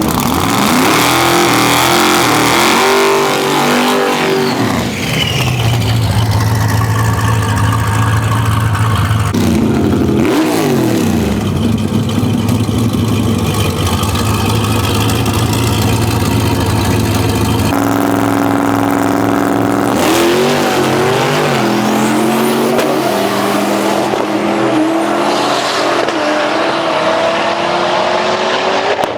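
Twin-turbo Ford Coyote 5.0 V8 in an F-150 drag truck, running loud: the engine pitch swings up and down, holds steady for several seconds at a time, jumps abruptly a few times, and climbs slowly near the end.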